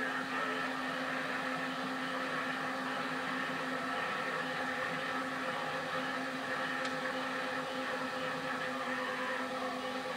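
A freight train running steadily: a continuous mechanical drone with several held tones over an even rushing noise.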